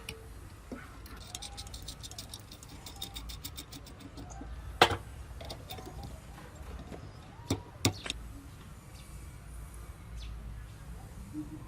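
Restoration work on scooter parts: a run of fast, light clicks for a few seconds, then a single sharp knock and, later, two knocks in quick succession, over a low steady hum.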